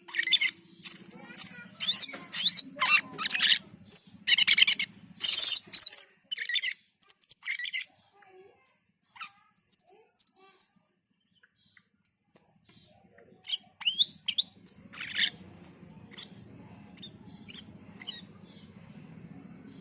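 Cucak keling calling in rapid harsh squawks and chirps, dense and loud for the first eight seconds, then in scattered single calls that thin out toward the end. A faint low hum runs under the second half.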